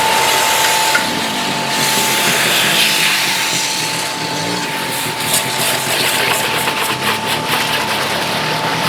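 Portable electric pressure washer running, its jet spraying water onto a car with a steady hiss over a constant motor whine.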